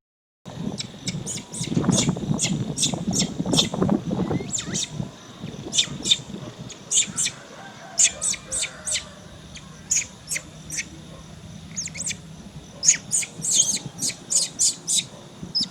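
Rapid, irregular series of short, high-pitched animal chirps, several a second, with a louder low rustling in the first few seconds.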